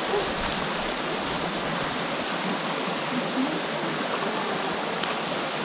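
Steady rush of flowing stream water, running evenly without a break.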